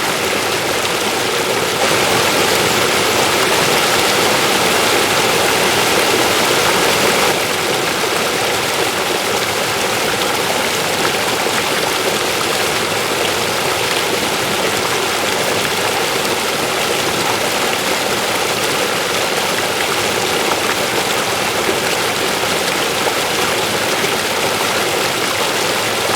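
River water flowing over rocks, a steady rushing that swells slightly for a few seconds near the start.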